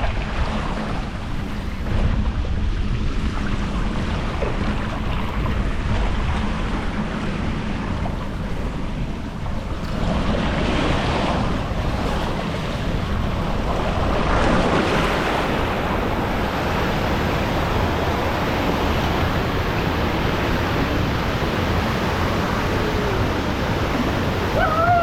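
Rushing water on a water-park slide with wind buffeting the microphone: a steady rush of noise that swells about ten and again about fourteen seconds in. A brief high voice-like call comes near the end.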